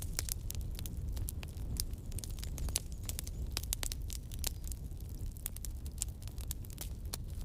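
Campfire burning: irregular sharp crackles and pops from the burning wood over a steady low rumble of the flames.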